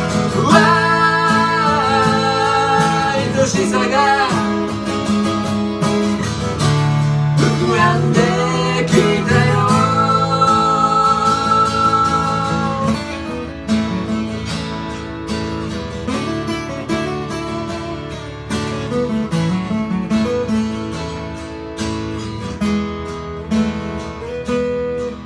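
Acoustic guitar strumming a song's closing chords, with long held sung notes over it in the first half; the guitar carries on alone and a little softer after about thirteen seconds.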